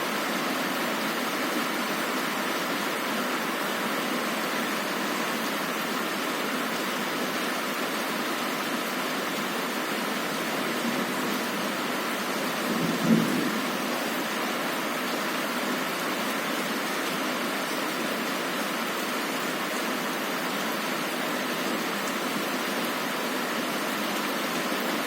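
Heavy rain falling steadily on a window glass, with one short crack of thunder about halfway through.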